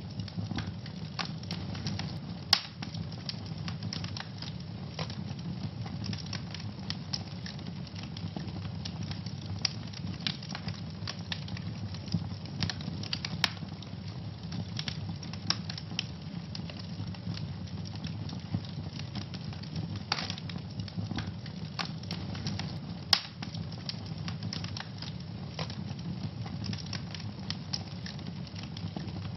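Wood fire burning in a fireplace: a steady low rumble of flames with frequent sharp crackles and pops, two louder pops about 2.5 s and 23 s in.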